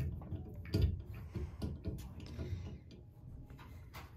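Irregular knocks and clicks from a baby playing with the fittings of a bathtub, the loudest right at the start and another about a second in.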